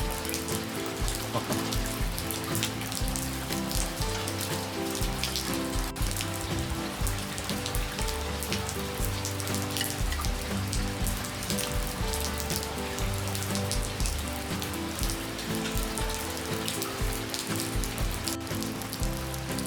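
Steady rain falling, a dense crackle of drops, with soft background music of slow held notes underneath.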